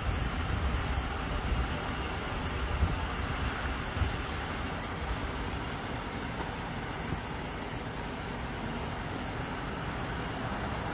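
Steady motor-vehicle noise, a low rumble, with a light knock about four seconds in.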